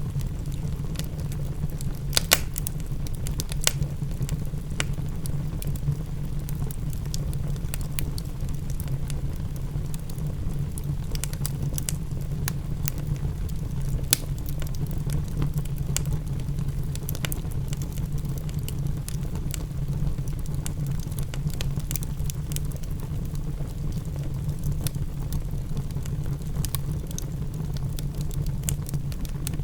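Wood fire crackling in a fireplace, with scattered sharp pops throughout (a louder one about two seconds in), over a steady low rush of rain.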